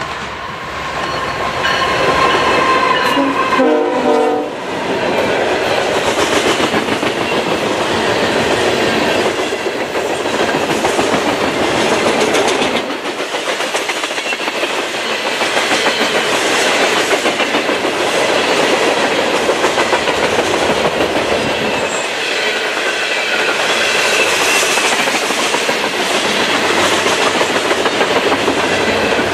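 Norfolk Southern coal train led by GE ES44AC locomotive NS 8100 passing close by. The horn sounds for the first four seconds or so, then the locomotive goes by and the coal cars roll past with a steady rumble and rhythmic clickety-clack of wheels over the rail joints.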